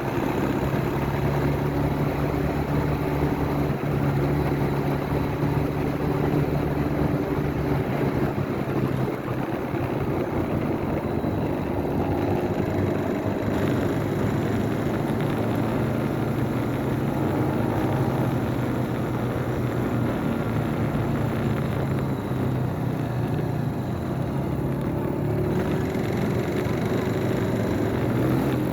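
Motorcycle engine running steadily while being ridden, mixed with road and wind noise; the engine pitch climbs a little near the end.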